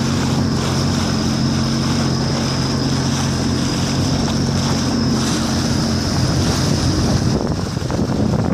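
Jet ski engine running at a steady hum, mixed with wind buffeting the microphone and rushing water. The engine hum fades out about six seconds in, leaving wind and water noise.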